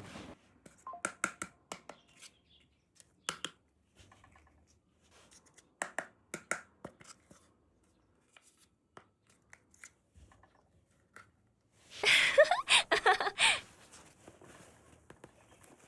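Hands handling small plastic toy pieces and packaging: scattered light clicks and taps, then a loud rustle of packaging about twelve seconds in, lasting under two seconds.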